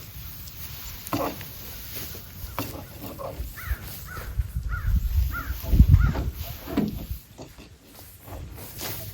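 A bird calling, a quick run of about five short calls, over a low rumble that is loudest about six seconds in.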